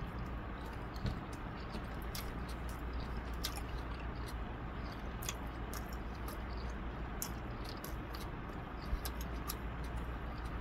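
A person chewing a mouthful of country-style ribs with the mouth closed: many short, scattered wet mouth clicks over a steady low background hum.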